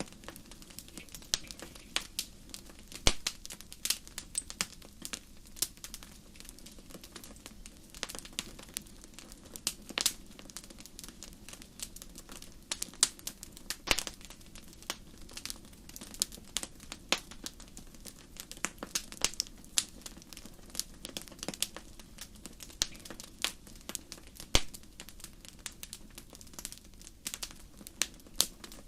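Wood fire in a fireplace crackling: many sharp irregular pops and snaps, a few louder ones, over a low steady hiss of the burning logs.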